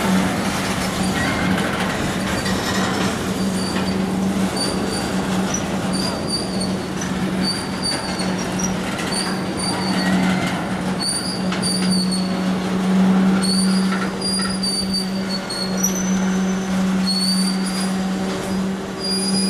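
Freight train of tank cars rolling past: a steady rumble and drone of steel wheels on the rails, with short high wheel squeals recurring every second or so.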